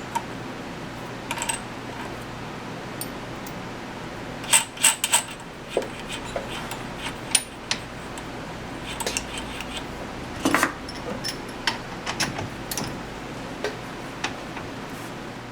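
Small steel tools and parts handled at a workbench: scattered sharp clicks and short ringing metal clinks, with the busiest clatter about a third of the way in and again about two-thirds in.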